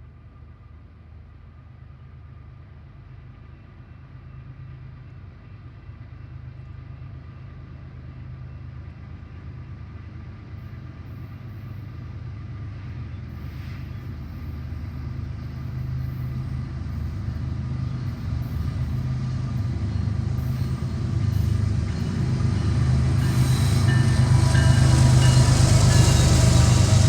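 Diesel-powered train approaching: a low engine rumble that grows steadily louder, with wheel and rail noise building up over the last few seconds.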